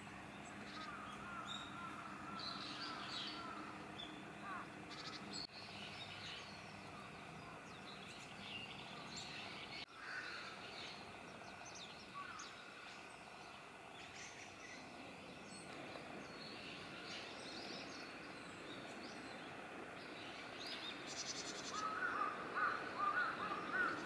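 Small birds calling: short high chirps scattered through. Near the end comes a louder, quick run of repeated calls.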